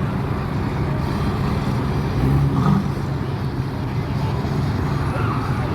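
Steady low engine rumble of a car running at low, even revs, with no revving.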